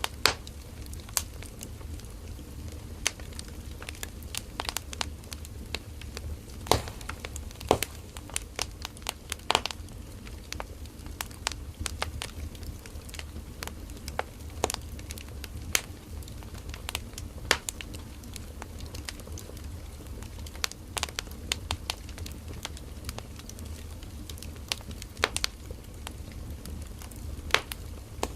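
Wood fire burning, with irregular sharp crackles and pops from the burning firewood over a steady low rumble of the flames.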